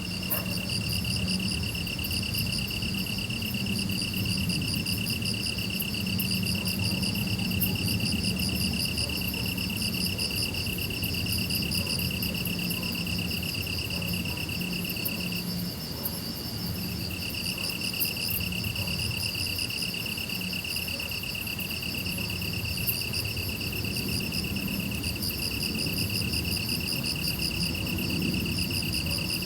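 Crickets and other grass insects trilling together: one steady high trill pauses for about a second and a half midway and briefly again later, while a faster pulsing chorus sits above it. A low steady hum runs beneath.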